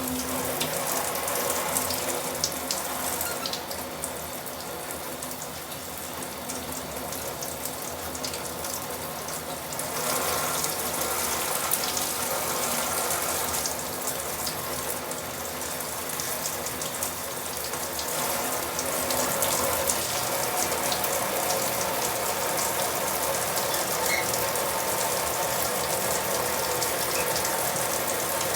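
Tap water running steadily, with many small spatters and drips.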